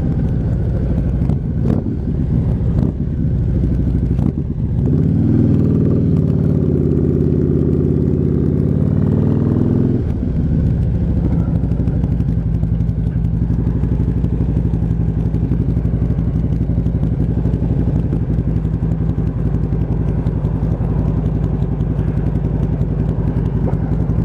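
Motorcycle engine idling steadily, with a few sharp knocks in the first few seconds. About five seconds in it is revved and held at higher revs for about five seconds, then drops abruptly back to idle.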